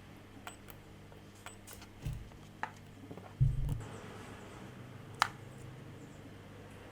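Small objects being handled on a work surface: light clicks and taps, a dull thump about two seconds in, a heavier thump about three and a half seconds in, and a sharp click a little after five seconds, over a faint steady hum.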